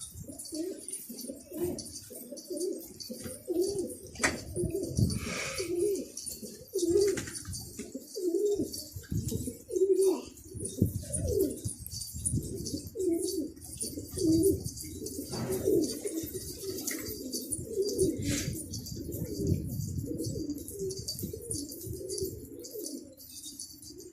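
Domestic pigeons cooing, with low coos repeating at about two a second.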